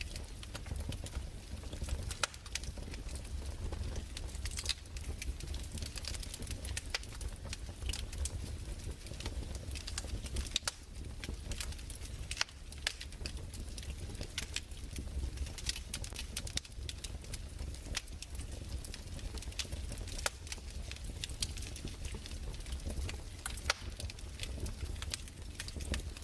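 Fireplace fire crackling: irregular sharp pops and snaps, several a second, over a low steady rumble.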